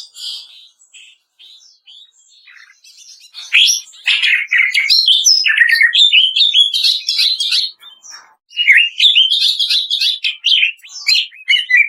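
Green leafbird (cucak ijo) song: rapid, varied chattering and sweeping whistled notes in dense phrases, near silent for the first few seconds, with a short break about eight seconds in.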